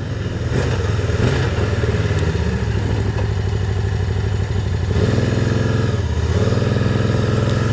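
Can-Am Spyder's three-cylinder engine running steadily under way, its note shifting about five seconds in.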